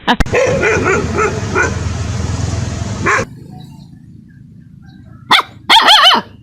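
Dogs barking and yipping: a run of short barks over a noisy background that cuts off about three seconds in, then after a quiet gap a single yelp and a quick run of high, wavering yips near the end.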